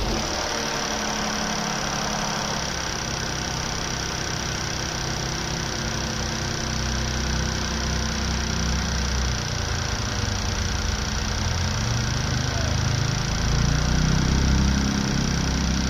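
Mercedes-Benz M276 V6 engine idling just after starting, with a ticking that follows engine speed. The owner places the tick at the back of the engine and has ruled out the timing-chain side. The engine runs a little louder about thirteen seconds in.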